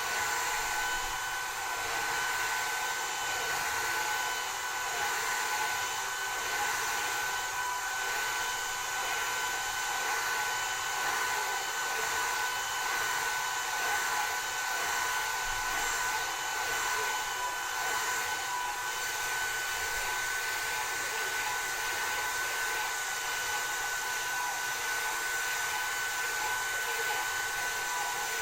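Hair dryer blowing steadily, a constant rush of air with a steady high whine from its motor.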